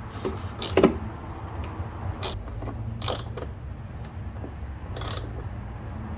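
Hand tools working on a car's rear brake assembly: a few separate sharp metallic clinks and knocks, the loudest about a second in, over a steady low hum.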